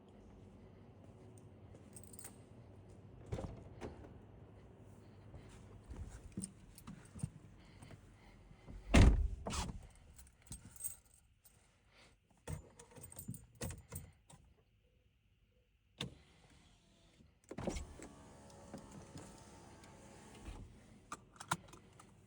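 Car keys jangling amid a scatter of clicks and knocks, with one heavy thump about nine seconds in and a brief near-silence around fifteen seconds.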